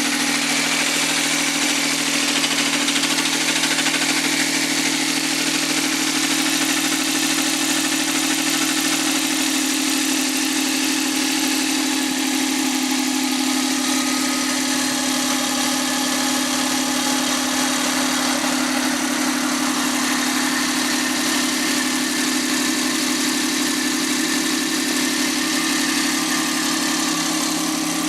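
Suzuki K6A 658 cc three-cylinder turbo engine idling steadily on a test run after overhaul.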